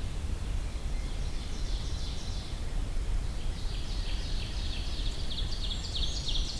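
High, thin calls of small songbirds, a brown creeper and golden-crowned kinglets: scattered short notes at first, then a dense run of quick, stepped twitters from about halfway on. A low steady rumble of outdoor background lies underneath.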